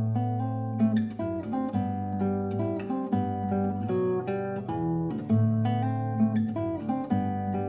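Seven-string acoustic guitar played solo, a slow lyrical piece of plucked melody over sustained bass notes.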